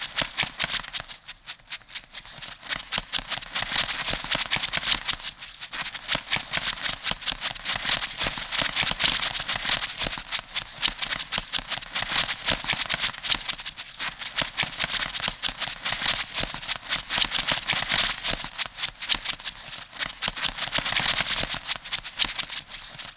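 Crab sound effect: a fast, dense clicking rattle, like scuttling claws and legs, that swells and fades in loudness.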